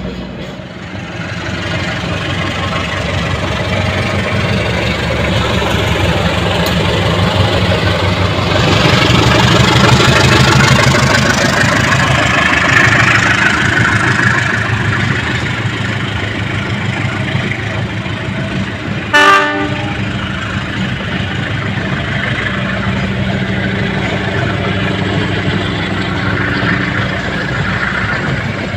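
Train running on the rails with a steady rumble that grows louder toward the middle and then eases. A brief horn blast sounds about two-thirds of the way through.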